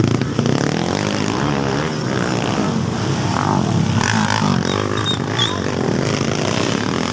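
Several motocross motorcycle engines revving and running at once, their pitch rising and falling as the riders work the throttle.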